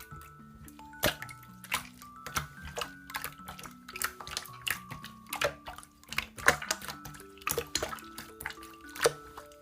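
Slime being pressed and poked, making irregular wet clicks and pops, over soft background music.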